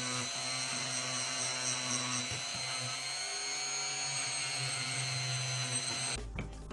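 Handheld power tool running steadily with a high whine, stopping abruptly about six seconds in.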